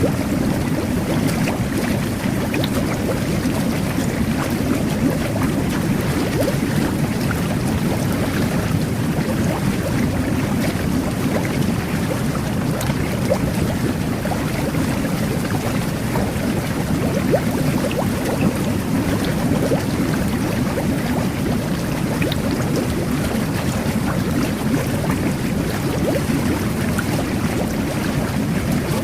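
Jet bath (jetted whirlpool tub) running: water churning and bubbling steadily under the jets.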